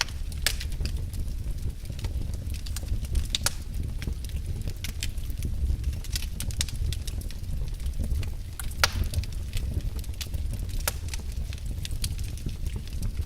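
Wood fire in a fireplace crackling, with sharp pops at irregular intervals over a steady low rumble.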